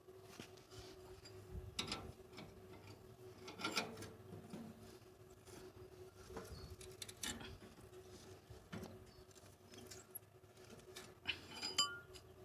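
Scattered light clinks and knocks of metal being handled, a few of them louder, over a faint steady hum.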